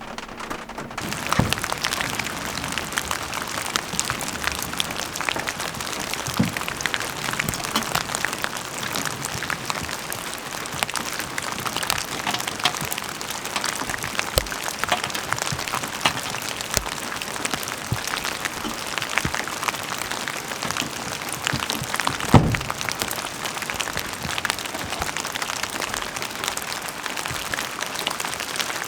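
Heavy rain falling steadily, with many individual drops hitting a hard surface. The rain grows louder about a second in, and there is a single heavier knock about 22 seconds in.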